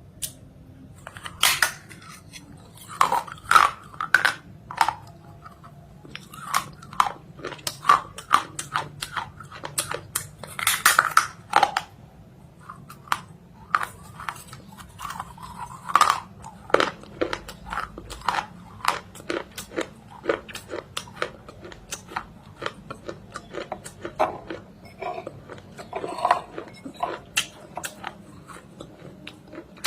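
A person biting into and chewing something hard and crunchy close to the microphone, with irregular loud crunches and crackles between quieter chews.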